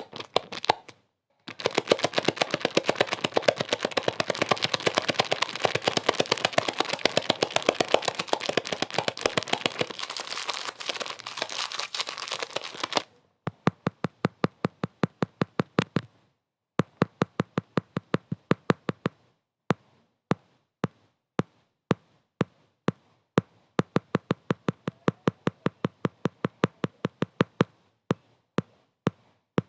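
Sharp crackling clicks, packed densely for roughly the first dozen seconds, then thinning to irregular single clicks with silences between them.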